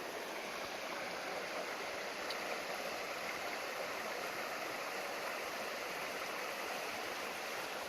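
River water running steadily, an even rushing with no other events over it.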